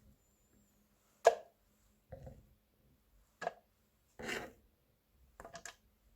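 Kitchen knife knocking on a cutting board while mincing garlic by hand: a few separate knocks rather than steady chopping. The sharpest comes about a second in, a longer stroke follows around four seconds, and a quick run of small clicks comes near the end.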